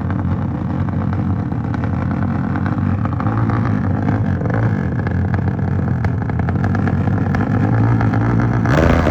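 Motorcycle engine running hard, held at high revs with small rises and dips, its pitch shifting near the end.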